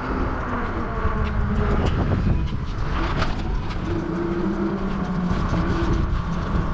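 Road traffic: motor vehicles running close by, a steady rumble with a low engine hum.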